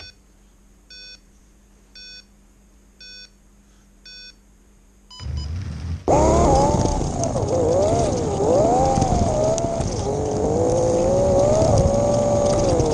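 Five short electronic beeps a second apart. Then the electric motor of a Carrera 1/32 digital slot car starts up and runs loudly, close up, with its whine rising and falling in pitch as the car speeds up and slows down around the track.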